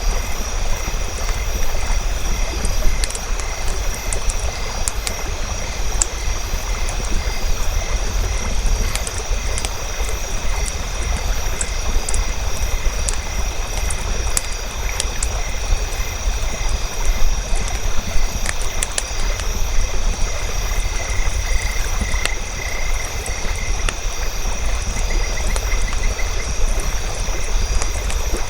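Nature ambience: a campfire crackling in sharp, scattered pops over a steady rush of flowing water, with a constant high drone and a rapid pulsing trill from a calling animal about three-quarters of the way through.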